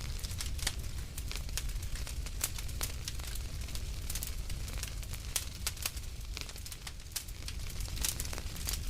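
Wood fire burning in a fireplace: a steady low rumble of flame with many irregular sharp crackles and pops.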